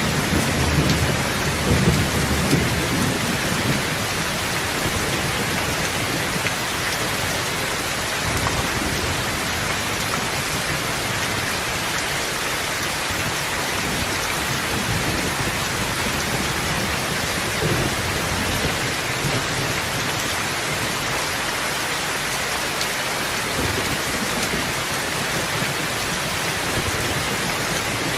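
Steady, heavy rain hissing evenly, with a low rumble of thunder at the start that fades within a few seconds. Fainter low rumbles swell up later on.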